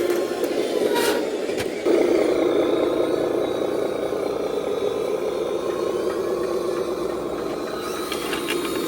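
Radio-controlled scale dump truck running: a steady motor and drivetrain drone that gets louder about two seconds in, with a few sharp clicks about a second in and near the end.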